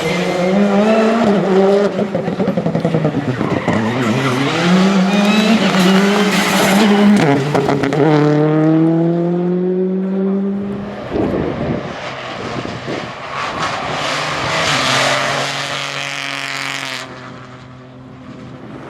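Rally car engine revving hard under full throttle, its pitch climbing and dropping sharply with each gear change. Near the end the sound falls away quickly.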